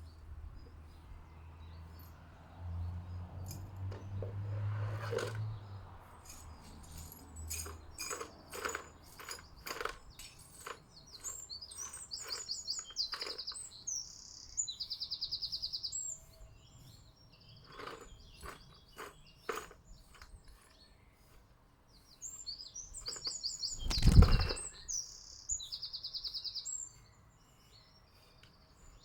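Small garden birds chirping close by, with short, fast-trilled high calls, among many sharp taps and clicks at the feeder. A low rumble runs through the first few seconds, and a single loud thump comes late on.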